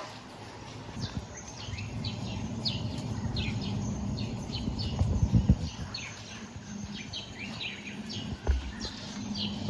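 Birds chirping over and over in short, high calls that drop in pitch, over a low rumbling background noise that swells in the middle.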